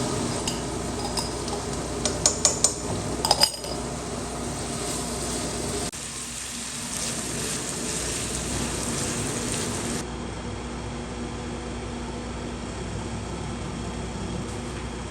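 Home cooking at the stove: food sizzling in a pan while a utensil stirs it, with a quick run of sharp clinks of metal on the pan about two to three and a half seconds in.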